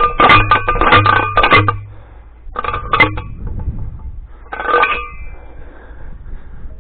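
Post driver banging a steel T-post into the ground: ringing metallic clanks, four quick strikes in a row, then two more, then one last strike.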